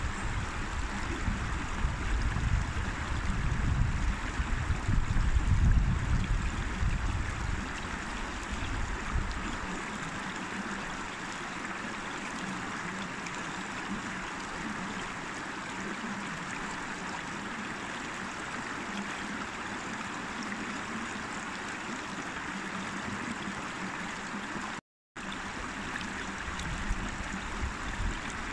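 River water rushing steadily, with a stronger low rumble for about the first nine seconds. The sound drops out for a split second near the end.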